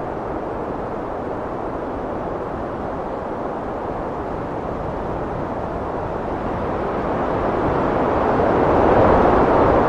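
Heavy wind blowing with a deep, steady rush that swells into a stronger gust near the end.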